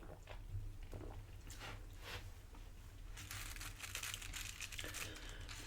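Close-up crunching and crackling of tortilla chips from a plate of loaded nachos being bitten and chewed. The crackle grows dense about halfway through.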